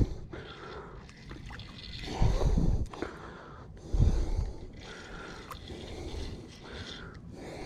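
Hooked white catfish splashing and thrashing at the water's surface during the fight, with two louder splashes about two and four seconds in.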